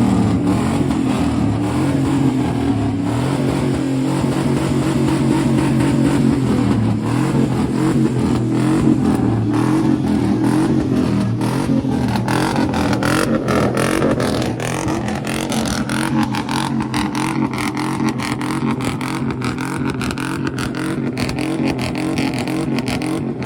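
Pickup truck engine held at high revs for a long stretch, its pitch nearly steady, with a loud rough hiss over it.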